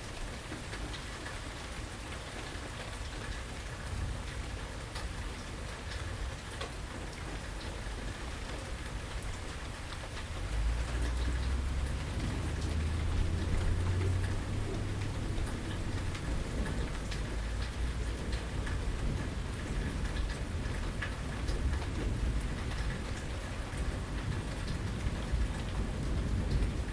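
Steady rain falling, with individual drops ticking. About ten seconds in, a low rumble of thunder rolls in; it is loudest a few seconds later and lingers under the rain.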